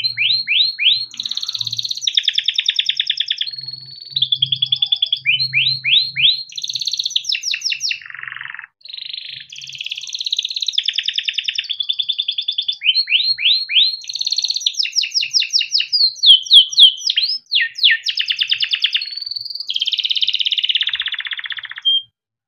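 Yellow domestic canary in full song: a long unbroken string of fast trills, rolls of rapidly repeated sweeping chirps and buzzy phrases, all high-pitched. It cuts off suddenly near the end.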